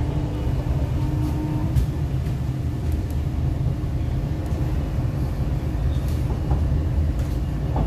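Inside an MTR R-Train electric multiple unit moving along a station platform: a steady low running rumble of the train, with a brief faint whine about a second in and a few light clicks.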